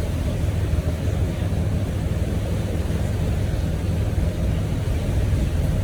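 Boat engine running steadily under way, a low, even rumble.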